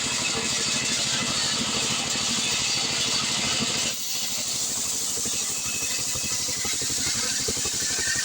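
Stihl 070 two-stroke chainsaw running steadily at speed, with a brief dip in level about four seconds in.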